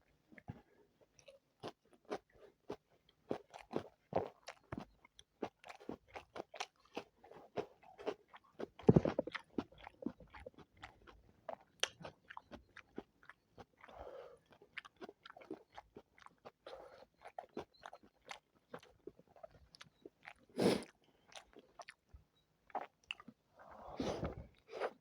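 Close-miked eating of chicken biryani: chewing and biting, a steady run of quick wet mouth clicks, with a few louder bites about nine seconds in, near 21 seconds and again near the end.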